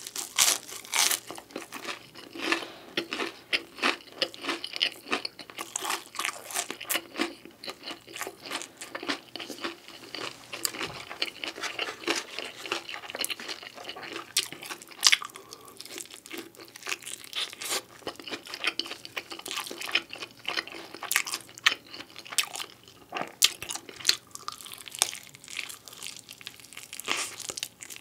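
Close-miked chewing of pizza: a dense, irregular stream of crisp crunches and small clicks as the crust is bitten and chewed.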